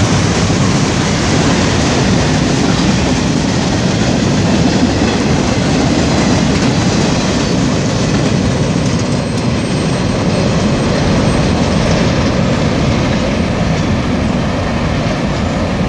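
A train rolling past at close range: a loud, steady noise of steel wheels running on the rails. A faint high tone sounds for a few seconds in the middle.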